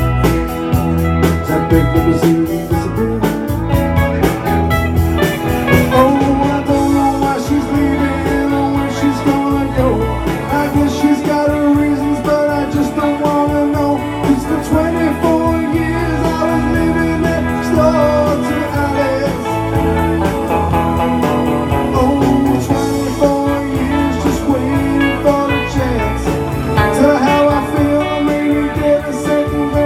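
Live band music at full volume, led by guitar with a steady bass and drum beat.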